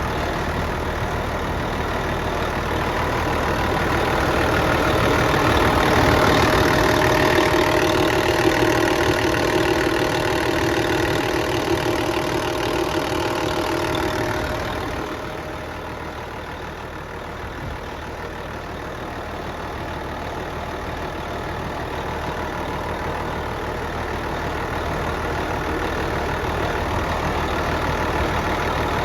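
Engine running steadily, growing louder from about four seconds in and then dropping back about fifteen seconds in to quieter, even running.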